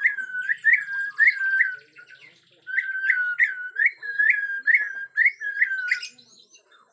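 Bornean white-rumped shama (murai batu Borneo) singing a fast, repeated series of loud whistled notes, each a held tone ending in a quick upward flick. It sings two runs with a short pause about two seconds in, then stops near the end.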